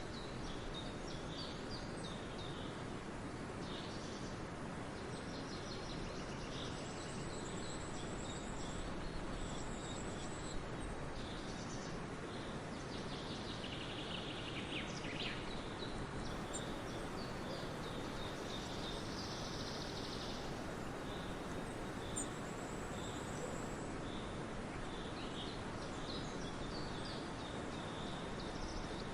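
Birds chirping and calling in short, scattered high notes over a steady rushing background noise.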